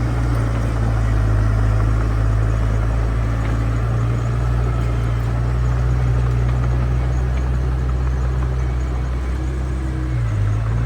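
Heavy diesel engine of earthmoving equipment running steadily with a deep, low drone, dipping briefly in pitch near the end.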